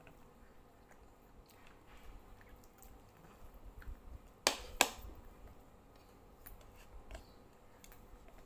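A person chewing adobo chicken gizzards eaten by hand, with scattered faint mouth clicks. About halfway, two sharp clicks a third of a second apart stand out as the loudest sounds.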